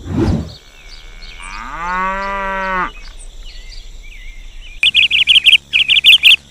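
A short low whoosh, then a cow mooing once, a long call of about a second and a half. Birds then chirp, faintly at first, then loud and fast from about five seconds in.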